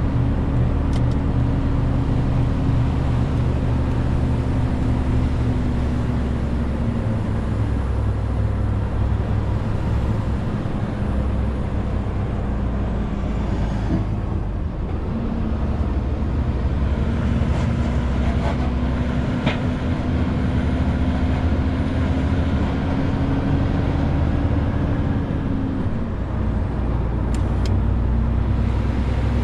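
Renault T520 truck's six-cylinder diesel engine running under a 40-tonne load, its note easing, then climbing slowly and dropping sharply near the end.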